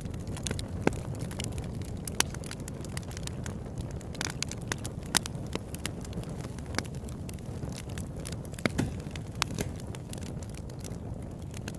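Campfire burning steadily, with a low rumble under frequent irregular sharp crackles and pops of the wood.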